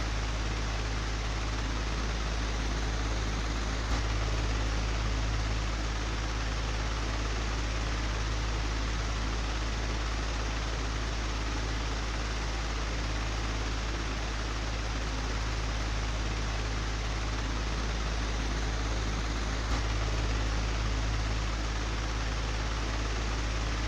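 Old, broken electric fan running steadily: a deep motor hum under an even rush of air, with a faint tick about four seconds in and again near twenty seconds.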